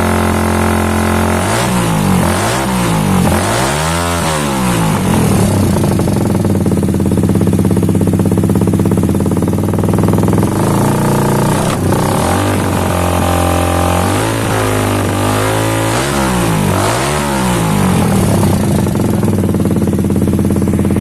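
Suzuki Satria FU's single-cylinder four-stroke engine through a PDK Racing aftermarket exhaust, idling and blipped repeatedly with the throttle, each blip a quick rise and fall in pitch: a few blips in the first seconds, a steadier stretch in the middle, then more blips later.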